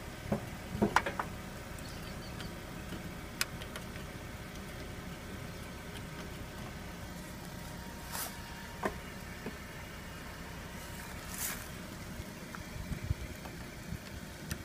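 Steady hum of a car engine idling, with scattered sharp clicks and clanks of a jumper-cable clamp being put onto a riding mower's starter solenoid. The mower's engine does not crank or start.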